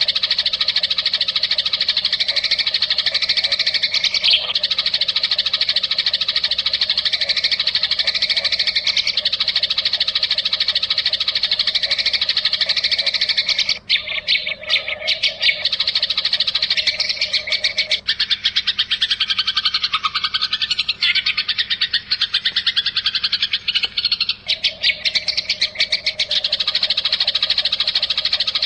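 Songbird training (masteran) recording: dense, continuous high-pitched trilling and chirping calls. Between about 18 and 24 seconds in, the calls change to a different, lower-pitched trilling pattern before the first pattern returns.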